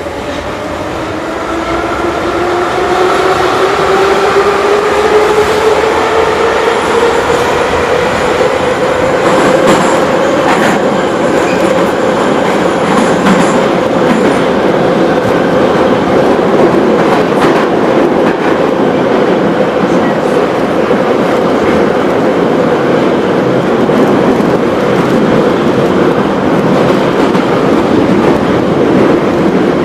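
Moscow Metro 81-717/714 train running in the tunnel. Its traction-motor whine rises in pitch over the first ten seconds or so as the train accelerates, then levels off into steady running. Heavy wheel-and-rail noise and clickety-clack run underneath.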